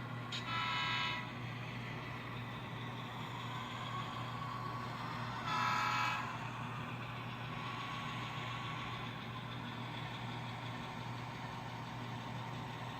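Two short horn toots, each under a second long and about five seconds apart, over a steady low hum.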